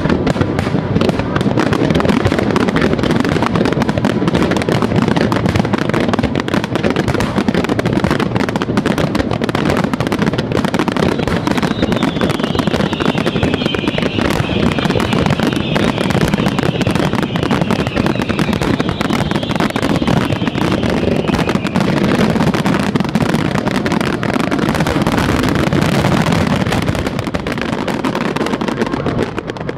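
Fireworks finale barrage: dense, continuous bursting shells and crackling, bangs overlapping with no gaps between them.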